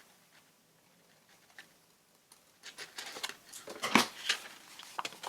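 Near silence for about two and a half seconds, then scissors snipping paper in a run of short clicks, the loudest about four seconds in.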